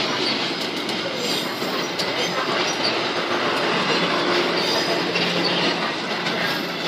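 Passenger train coaches rolling past at speed: a steady rumble and clatter of steel wheels on the rails.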